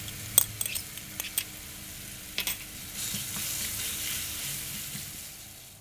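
Diced carrots being stirred into a sizzling chicken and spice mixture in a wok with a spatula: a few sharp scrapes and taps in the first second and a half, then a steady frying sizzle from about three seconds in that fades near the end.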